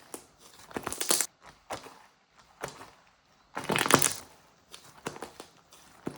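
Crinkling and crunching in several short bursts, the loudest about a second in and again just before four seconds in.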